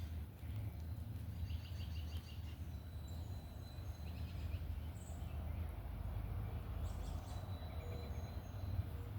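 Steady low outdoor background rumble, with a few faint, quick runs of high bird chirps scattered through it.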